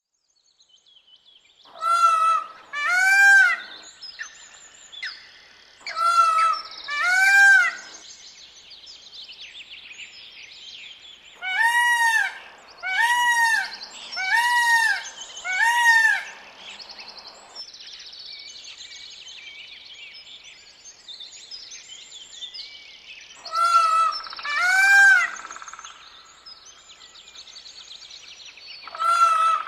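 Sheep bleating, about ten loud calls in bunches of two or four, each rising and falling in pitch, over continuous chirping of small birds.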